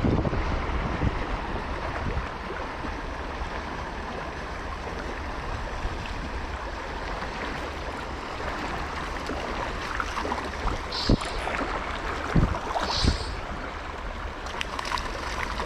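Steady rush of flowing river water. Late on, a few short sharp knocks stand out above it.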